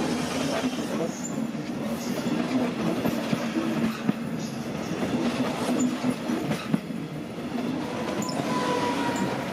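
Double-deck regional train with a class 245 diesel locomotive rolling past, wheels clattering over points and rail joints. A faint wheel squeal comes in near the end.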